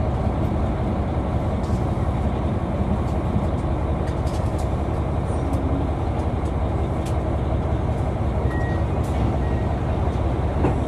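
KiHa 261 series diesel railcar running, its engine and running gear making a steady, dense low rumble with a few faint clicks.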